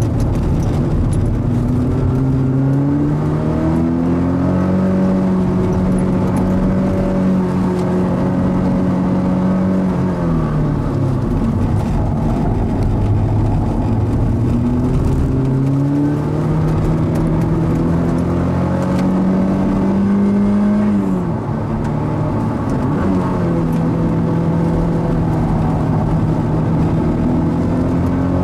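Mazda NC Roadster's stock 2.0-litre four-cylinder engine being driven hard on a circuit lap. Its pitch climbs and holds high, drops about ten seconds in and again around twenty-one seconds as the car slows for corners, then climbs again each time.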